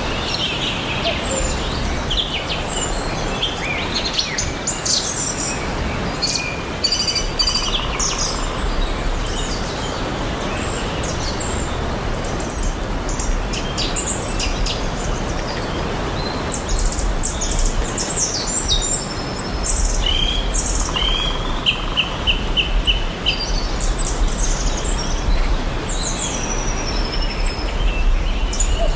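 Several songbirds chirping and calling over a steady background hiss, with a quick run of evenly repeated notes about three-quarters of the way in.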